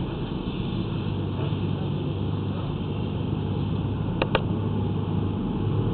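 Steady low rumble of a running vehicle engine, with two quick clicks about four seconds in.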